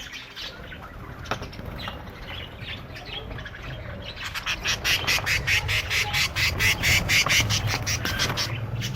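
A colony of budgerigars chattering and chirping. About halfway through, a louder, fast, even run of sharp repeated sounds sets in at about six a second and lasts some four seconds.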